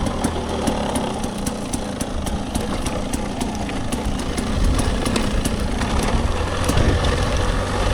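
Dirt bike engine running at low revs, its pitch rising and falling as the throttle is worked, with frequent sharp clicks and knocks.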